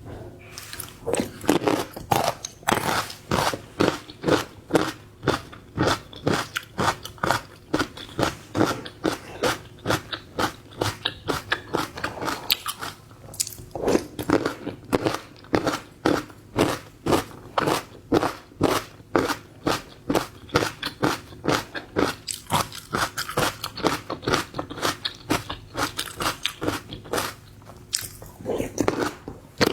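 Close-miked crunchy chewing and biting of food, a steady run of crisp crunches about two to three a second, pausing briefly twice.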